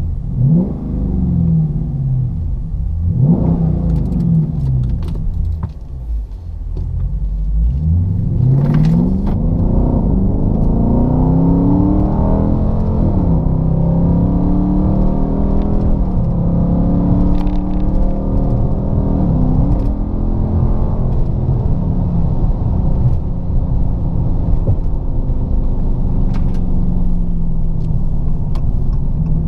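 Dodge Charger R/T's 5.7 Hemi V8 through a Solo Performance MR212-HJ stainless steel exhaust with H-pipe, resonators and J-pipes, a deep V8 note. It rises and falls in pitch several times in the first few seconds, climbs sharply about eight seconds in, then runs at a steadier pitch with a few brief dips.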